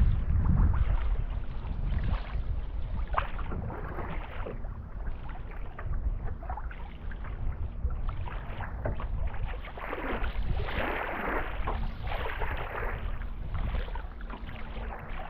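Water splashing and slapping against the hull of a small boat under way, in irregular bursts, with wind buffeting the microphone, heaviest at the start. A faint steady hum runs underneath.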